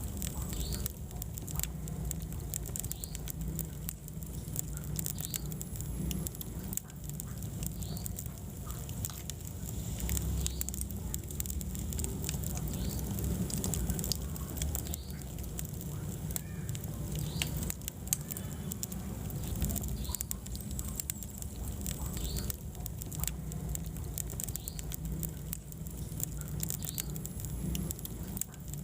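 Wood fire burning in a fireplace: a steady low rumble of flames with many small crackles and pops scattered throughout.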